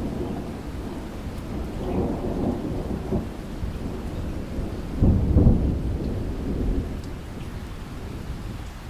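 Thunder rumbling over steady rain, with a louder roll of thunder about five seconds in that slowly dies away.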